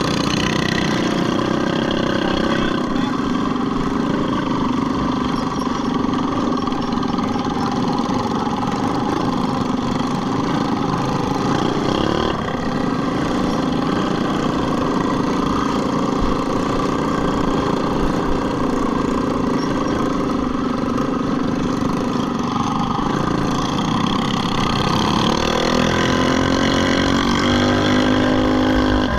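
Several small minibike engines running together, their pitches rising and falling as they race. Near the end, one engine revs up with a rising pitch.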